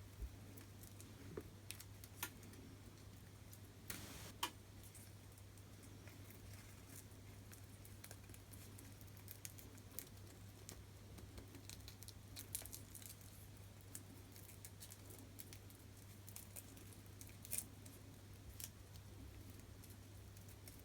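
Faint, scattered clicks and small scrapes of a knife blade prying a plastic display frame off the glass of an iPhone screen, the sharpest clicks a few seconds in and again near the end.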